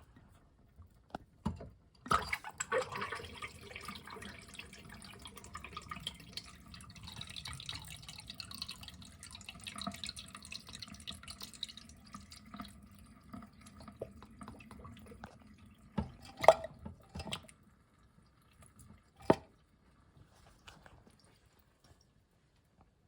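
A miniature toilet flushing from its small tank: a sharp click about two seconds in, then water pouring and trickling for about ten seconds before fading to drips. A few clicks and knocks follow near the end.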